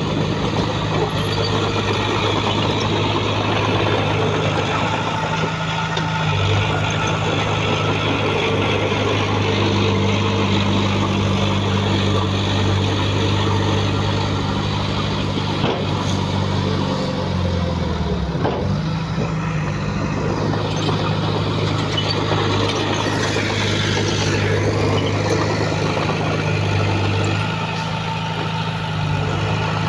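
Heavy diesel engine of earthmoving equipment running steadily, its pitch dipping briefly and recovering a little over halfway through.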